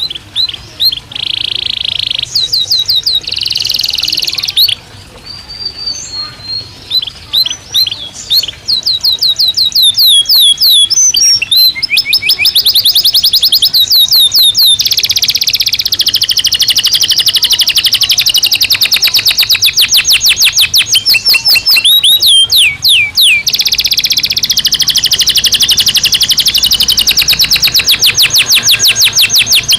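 Domestic canary singing: a long song built of phrases of rapidly repeated notes, with short broken phrases at first. From about ten seconds in it becomes a loud, nearly continuous run of fast trills.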